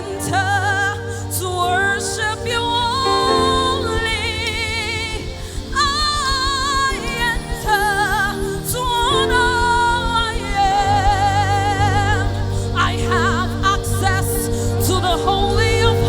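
Live gospel worship music: held chords and bass under a singing voice with wide vibrato on long notes.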